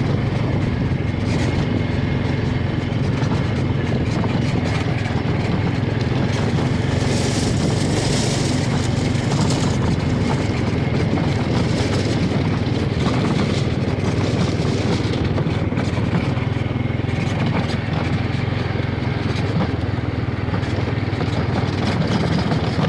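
Engine of a Honda off-road vehicle running steadily under load as it rides across soft beach sand.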